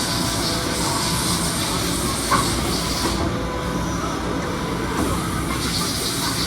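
Kan KH-6 CNC deburring washing machine running, with a steady low rumble and a high hiss that stops about three seconds in and comes back near the end. A single short knock sounds a little after two seconds.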